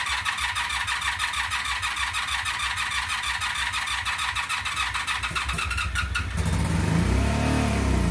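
2002 Honda Magna VF750C's V4 engine being cranked over by the starter motor for about six seconds, then catching and running, its revs rising and falling once. This is the first start after a rebuild, on choke with the throttle cracked open.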